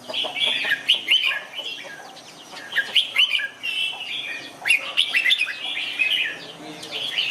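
Red-whiskered bulbul singing: short bursts of quick, bright whistled phrases, three bouts separated by brief pauses.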